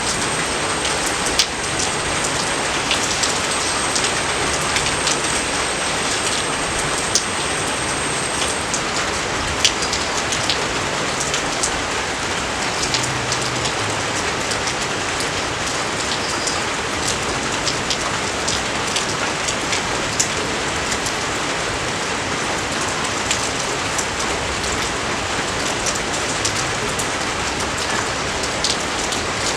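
Steady rain falling, an even hiss dotted with many sharp, close drop hits.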